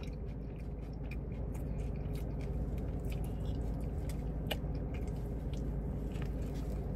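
A person biting into and chewing a fried chicken slider: soft, wet mouth sounds and small scattered clicks over a steady low hum.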